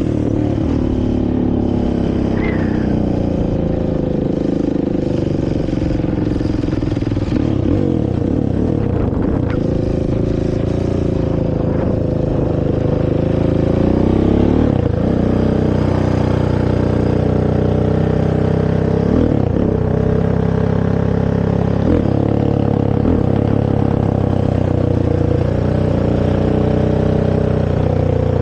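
Honda TRX450R quad's single-cylinder four-stroke engine through its stock exhaust, running under throttle as it rides, its pitch dropping and climbing again a few times in the second half.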